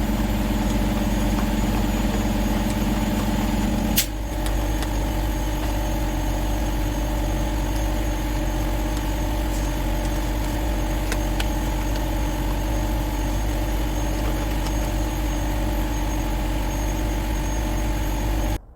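Steady idling drone of a truck engine, with a low, even hum. About four seconds in a click is heard and one humming tone drops out; the drone runs on and then cuts off suddenly near the end.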